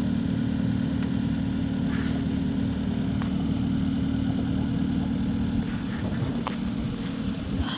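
An engine running steadily at constant speed, with a couple of faint clicks.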